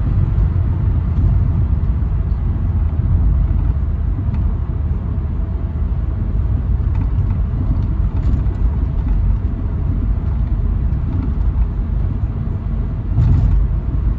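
Toyota Carina E's 1.6-litre 16-valve four-cylinder engine and tyres running in a steady low rumble on a test drive, a little louder for a moment near the end.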